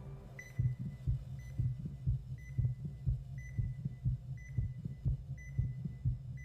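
Hospital heart monitor beeping about once a second, over a heartbeat sound effect of low double thumps.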